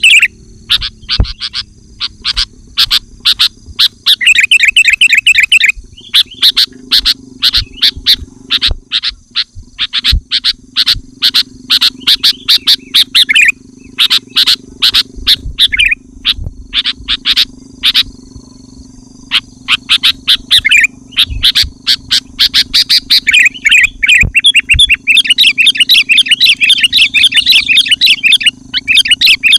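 Sooty-headed bulbul (kutilang) singing loudly in dense runs of rapid, chattering notes, broken by short pauses every few seconds, over a steady low hum.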